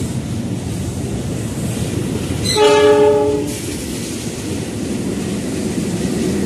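A KRL Commuter Line 205-series electric train rolling past, rumbling steadily on the rails. A train horn sounds once for about a second, a little before the middle, and is the loudest sound.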